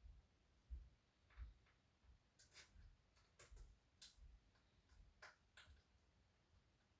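Near silence with a few faint, scattered clicks and soft low thumps.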